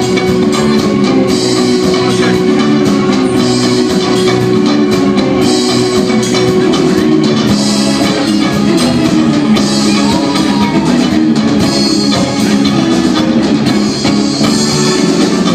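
Rock band playing live: electric guitars over a drum kit, loud and steady, with no singing heard.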